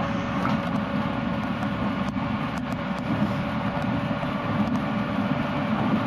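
Running noise inside a JR West 221 series electric train at speed: a steady rumble of wheels on rail, with a few faint scattered clicks.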